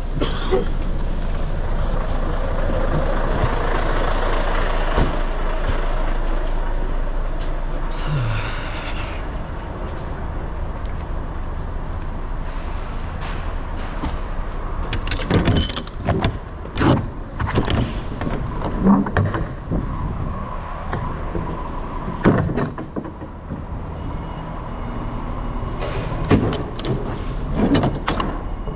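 Lorry's diesel engine idling steadily, with a run of sharp knocks and clanks from about halfway through, likely the trailer's rear doors being opened.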